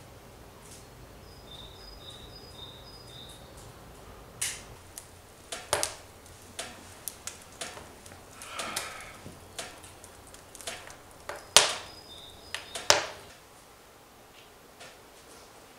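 Scattered sharp clicks and knocks at irregular intervals, the loudest a few seconds before the end, with two brief runs of short high chirps.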